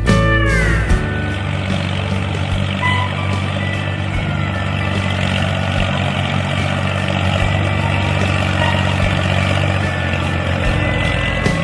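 A small motor running steadily with a gritty whir, over a steady low hum.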